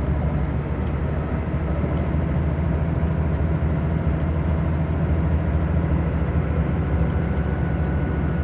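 Scania DC9 five-cylinder diesel of a Scania K94 bus running steadily, a deep even drone with no sudden changes.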